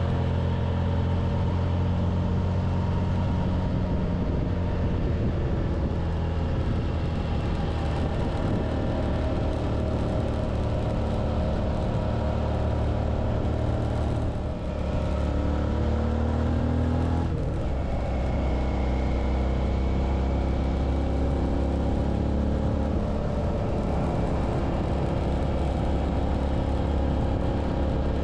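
Suzuki V-Strom 650's V-twin engine running steadily while riding. About halfway through the sound dips briefly, the note rises, and then it settles into a lower, steady drone.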